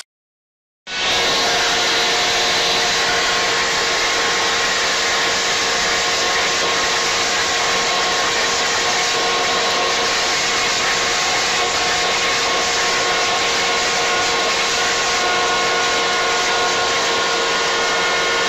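A loud, steady whir from an electric motor-driven appliance, with a few steady tones in it. It starts suddenly about a second in and holds unchanged throughout.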